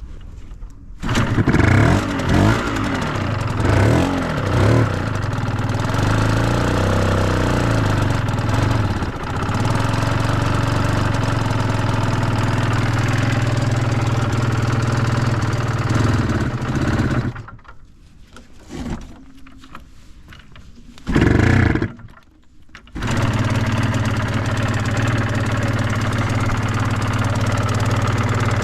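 Suzuki RGV250 Gamma's two-stroke V-twin engine starting about a second in and being revved several times before settling into a steady idle. It goes quiet about two-thirds of the way through, gives one short loud burst, then idles steadily again. The engine runs without abnormal noises.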